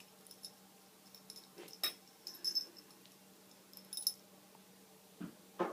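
Small bell on a kitten's collar jingling in short bursts as the kitten moves, four or five times, with a couple of soft thumps near the end.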